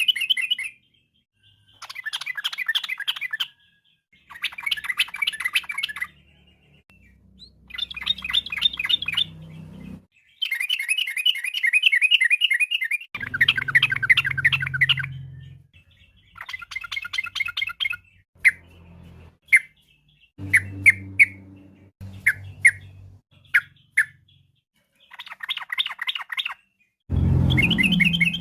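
Yellow-vented bulbul (trucukan) singing: repeated bursts of rapid bubbling notes, each a couple of seconds long, with short pauses between them. Around the middle the song breaks into a few single short notes before the fuller phrases return.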